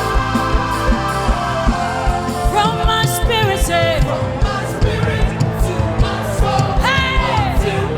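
Church praise-band music with a steady drum beat, keyboard chords and singing; a voice slides through a few notes about two and a half seconds in and again near the end.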